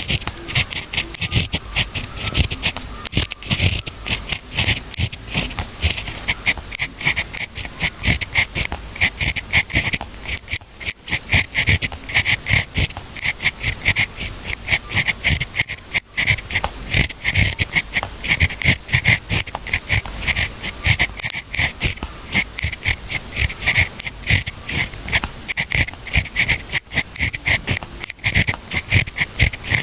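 Pen or pencil scratching on paper in quick, continuous writing strokes.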